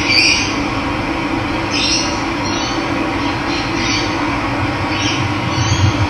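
Steady rush of running water, with several short bird calls breaking in every second or so.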